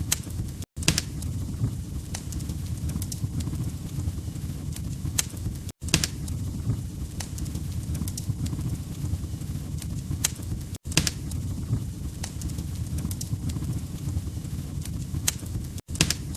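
Fireplace fire crackling: scattered sharp pops and snaps over a low rumble of flames. The sound cuts out for an instant about every five seconds.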